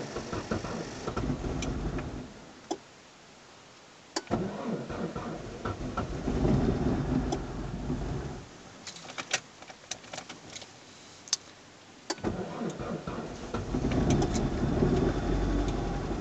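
Car engine cold-started in deep frost: cranked, it fires and runs roughly, then stumbles with sharp pops and nearly dies, before catching again about twelve seconds in and settling into a steady fast idle.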